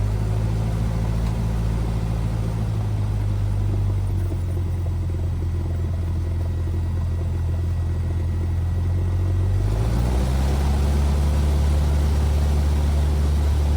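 Cessna 172R's four-cylinder Lycoming engine running steadily. Its pitch rises a little and it gets slightly louder about ten seconds in as power comes up, just after takeoff clearance.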